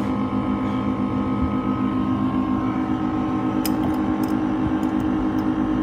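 Electric motor of a machine running steadily: a constant hum with a fast, even throb underneath and a few faint ticks.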